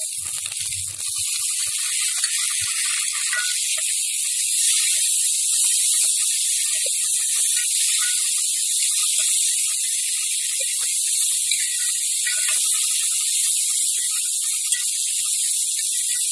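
Chopped vegetables frying in hot oil in a large metal pan, a steady sizzling hiss, with a few faint scrapes of a metal ladle stirring them.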